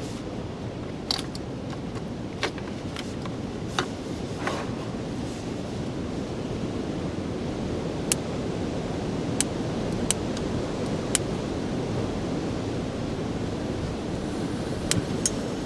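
Steady rushing wind noise, with irregular sharp clicks scattered through it.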